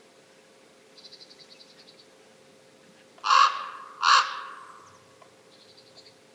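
A crow-family bird giving two loud harsh calls about a second apart, with a faint quick high-pitched rattling call about a second in and again near the end.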